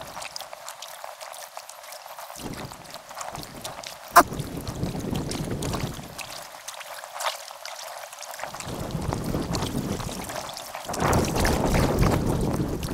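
Kayak paddling on a river, heard sped up in a time lapse: water splashing and dripping from the paddle, with wind rumbling on the microphone. A sharp knock comes about four seconds in, and a smaller one a few seconds later.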